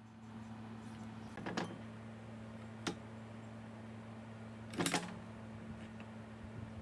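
A few short knocks or clatters of hard objects, three in all, the loudest about five seconds in, over a steady low hum.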